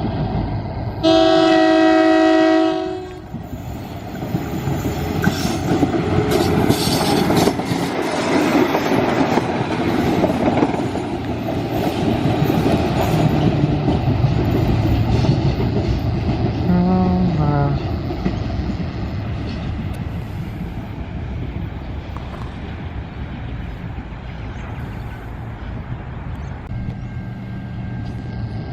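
Train horn sounding once for about two seconds, then a train passing with a rumble and wheels clattering over the rails, easing off in the last third.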